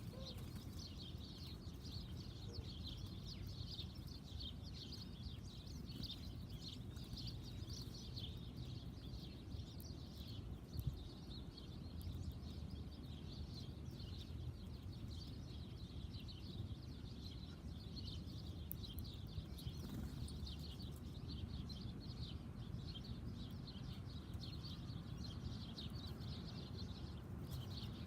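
Backyard birds chirping, many short high calls overlapping without pause, over a low steady background rumble.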